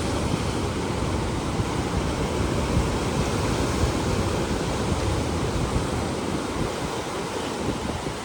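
Ocean surf breaking on rocks, a steady rush of churning white water, mixed with wind blowing across the microphone.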